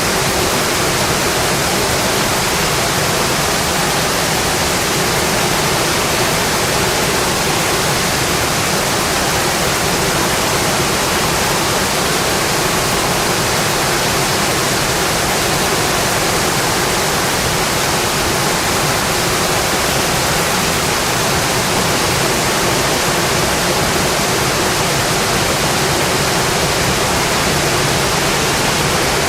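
Steady rain on a metal roof, an even, unbroken hiss that holds the same level throughout.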